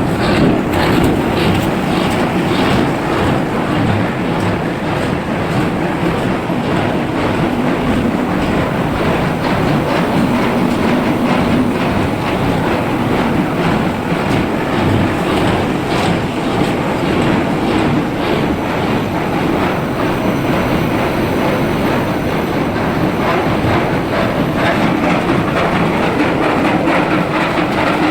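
Charcoal-making machinery of a sawdust carbonization furnace line running loud and steady, with a dense, continuous clatter over a steady mechanical noise.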